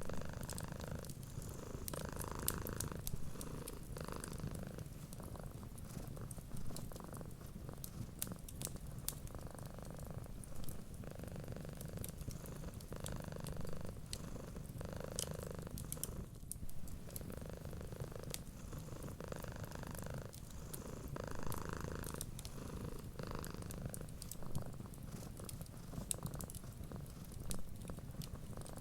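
Domestic cat purring steadily, the purr swelling and fading with each breath every second or two, over frequent small crackles and pops of a wood fire.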